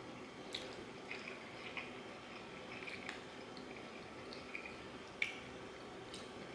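Close-up eating sounds: fried chicken being chewed, with scattered small wet smacks and crisp clicks, the sharpest a little after five seconds.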